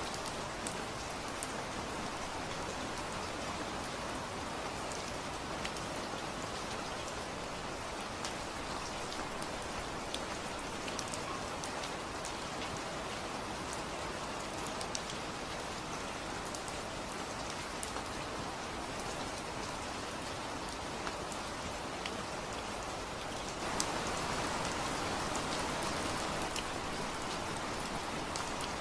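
Steady rain falling, with individual drops striking a surface; the rain grows louder near the end.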